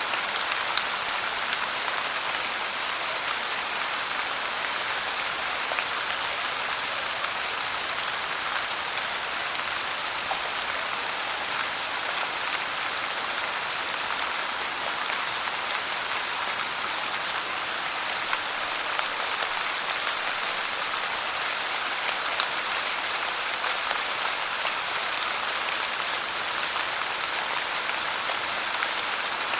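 Steady rain pouring onto a hard surface, an even hiss dotted with faint drop ticks.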